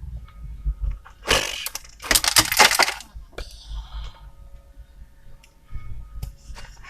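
A run of sharp cracks and scraping noise about two seconds long, starting about a second in, followed by a few smaller clicks, as material is worked or broken during the roof repair. A low rumble runs underneath.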